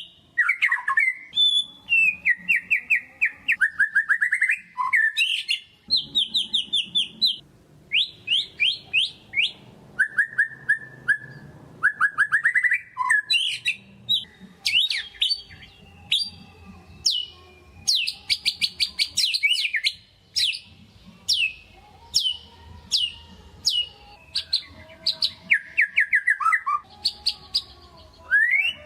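White-rumped shama (murai batu) in full, energetic song: a fast, near-continuous stream of rapidly repeated chirps, trills and sweeping whistled notes in phrases of a second or two, the kind of lure song meant to rouse other shamas into singing.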